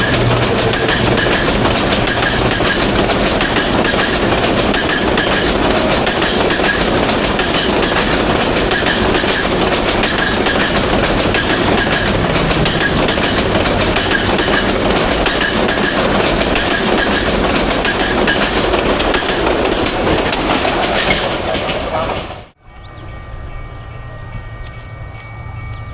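Intercity passenger train's coaches rolling past at speed: a steady rumble of wheels on rail with a repeating clickety-clack over the rail joints. About 22 seconds in it cuts off abruptly to a much quieter steady low hum with a couple of faint steady tones.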